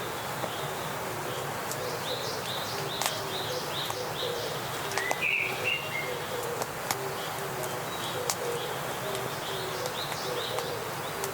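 Several wild birds calling: a quick run of high chirps, one louder call about five seconds in, and low short notes repeating throughout, over a steady background hiss.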